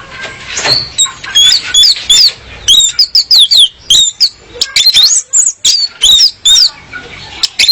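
Female orange-headed thrush calling: a fast series of short, sharp chirps, each sliding quickly down in pitch, coming in quick clusters separated by brief pauses.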